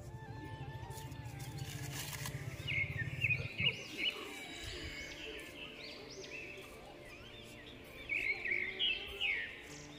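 Birds chirping in quick, short, arching calls, loudest a few seconds in and again near the end, over a low steady hum that stops about three and a half seconds in.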